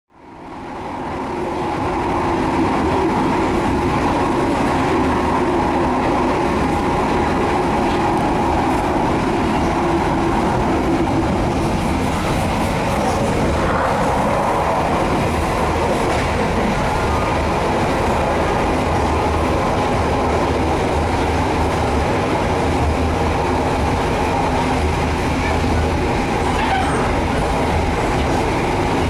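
Steady running noise of a moving train heard from inside an economy-class passenger coach, fading in over the first two seconds.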